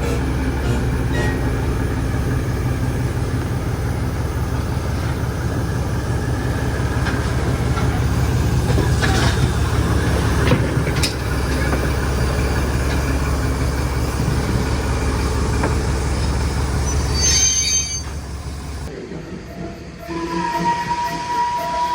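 Heritage railway train running with a steady low rumble and rail noise. A brief high squeal comes about 17 seconds in, and then the sound drops away near the end.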